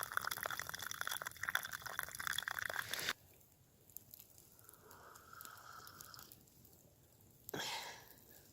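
Campfire crackling and sizzling, a dense run of small pops that cuts off abruptly about three seconds in. After that it is quiet, with a short burst of noise near the end.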